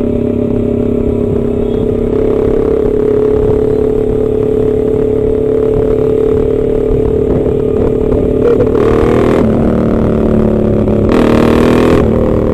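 Motorcycle engine running at a steady, nearly constant pitch while riding, with two brief louder, rougher bursts about nine and eleven seconds in.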